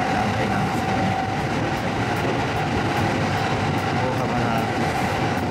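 Steady running noise inside the cabin of a moving electric commuter train.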